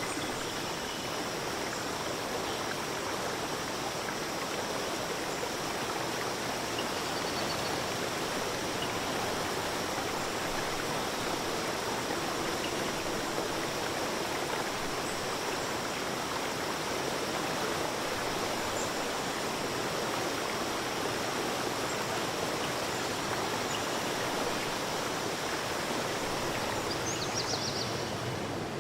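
Forest stream running steadily with an even rushing of water, and a few faint high chirps near the end.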